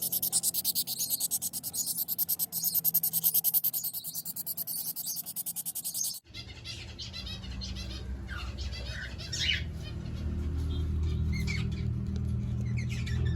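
A fast, even rasping pulse for about six seconds, cut off abruptly, then aviary birds chirping in short, scattered calls over a low steady rumble.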